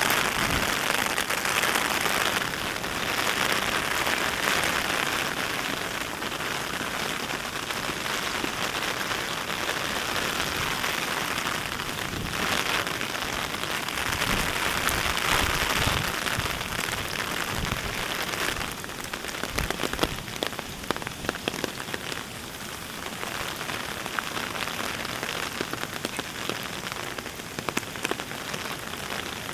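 Heavy rain falling steadily, with sharp drips and taps of drops hitting a surface scattered through the second half.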